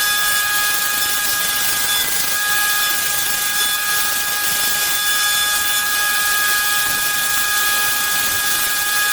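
An electric power tool running steadily: a loud, even hiss with a high whine of several steady tones.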